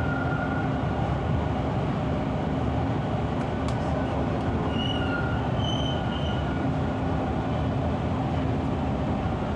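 Toronto subway train running at speed, heard from inside the car: a steady rumble of wheels on rail and traction motors, with a few short high squeals about five to six seconds in.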